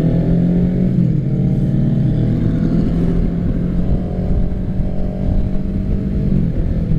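A 2024 Kawasaki Ninja 650's parallel-twin engine running under way through an aftermarket M4 full exhaust system. The engine note is steady, with small shifts in pitch about a second in and again near the end.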